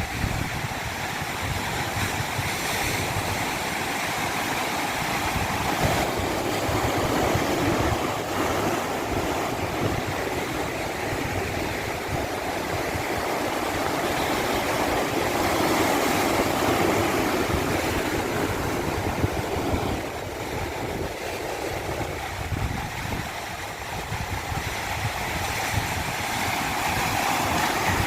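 Rushing water, a continuous noisy wash that slowly swells and eases in loudness.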